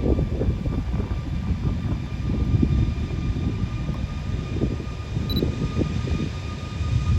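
Jet airliner engines running, a faint steady whine over rough low noise.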